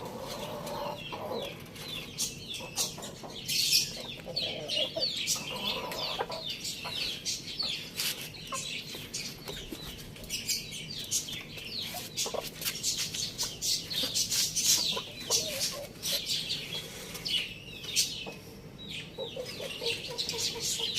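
Chickens clucking, with the lower calls bunched in the first several seconds and many quick, high, falling chirps throughout.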